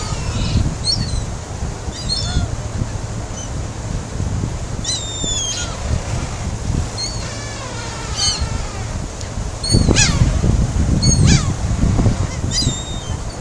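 A flock of seagulls crying, many short calls overlapping throughout, over wind rumbling on the microphone that grows louder about ten seconds in.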